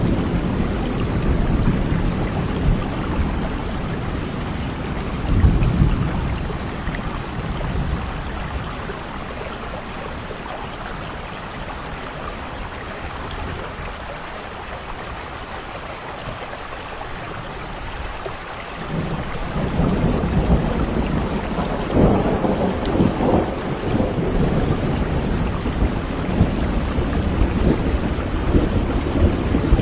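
Thunderstorm: steady rain with low rolling thunder. The thunder swells about five seconds in, eases into a quieter lull in the middle, then rolls in again and is strongest in the last third.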